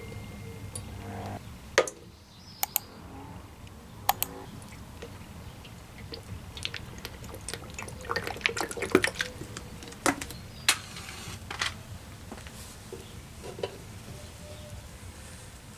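Irregular sharp clicks and light taps, some in quick clusters, over a low steady hum.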